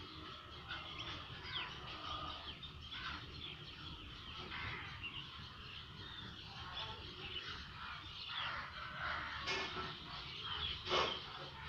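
A small bird chirping over and over in short, irregular calls, which the owner takes for a hungry bird. One louder, sharper call comes near the end, over a steady low background hum.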